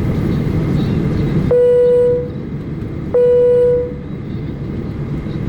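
Boeing 737-800 cabin chime sounding twice, about a second and a half apart, each tone ringing and fading, over the steady rumble of the airliner's cabin. These are the chimes that come just before the take-off announcement.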